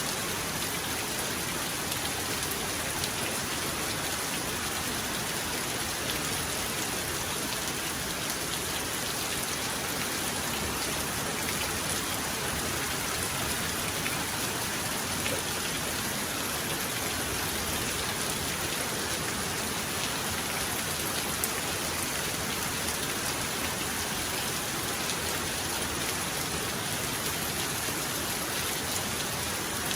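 Steady heavy rain, an even hiss with faint ticks of single drops; no thunder rolls.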